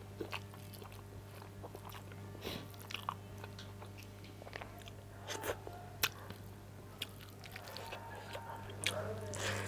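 Close-up mouth sounds of a person eating: chewing and biting with scattered small clicks and smacks, over a steady low hum.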